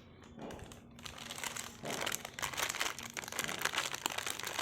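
Plastic snack packet crinkling as it is handled, a rapid run of crackles that gets busier about two seconds in.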